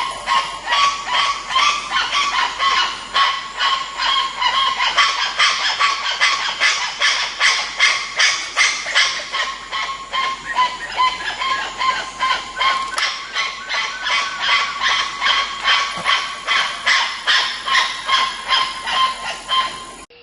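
A primate calling in a long, fast series of short honking calls, about two to three a second, kept up evenly throughout.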